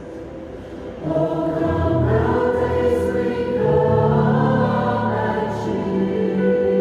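Music: a choir singing long held chords, growing louder about a second in.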